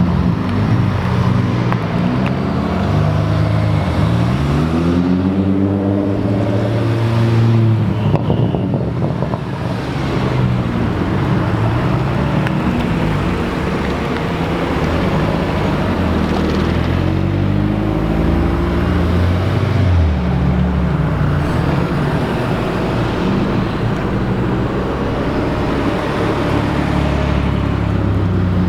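A line of Audi cars pulling away and driving past one after another, their engines revving, with the pitch rising and falling through accelerations and gear changes over a steady low exhaust rumble.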